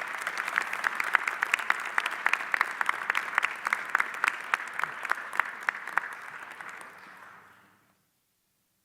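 Audience applauding, with sharp individual claps standing out, fading away and stopping about eight seconds in.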